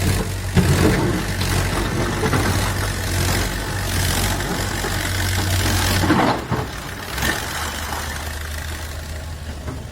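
Diesel engine of a working construction machine running steadily, with loud noisy rushing on top that falls away a little after six seconds in, leaving the engine running more quietly.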